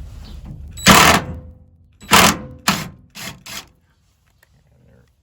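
DeWalt cordless power driver run in short bursts, driving bracket screws: one longer burst about a second in, then four shorter ones in quick succession.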